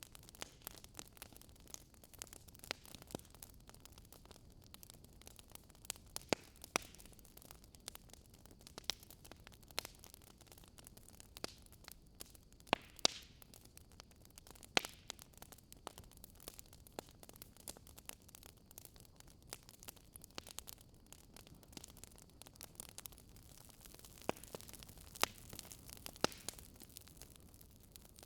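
Fire crackling softly: irregular sharp pops and snaps, a few louder than the rest, over a faint steady hiss.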